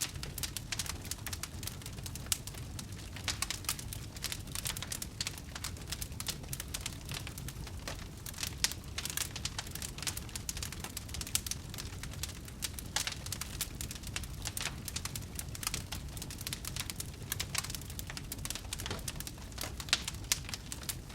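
Campfire burning, wood crackling and popping in many sharp irregular snaps, a few louder pops standing out, over a low steady rumble of the flames.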